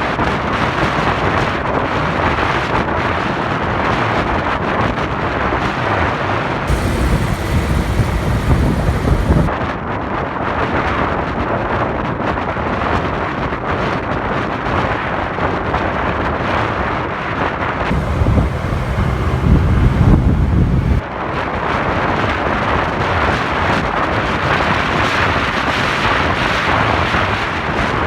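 Wind rushing over the microphone of a moving motorcycle, mixed with road and traffic noise. Twice, about seven and eighteen seconds in, it swells into a heavier low buffeting for a few seconds.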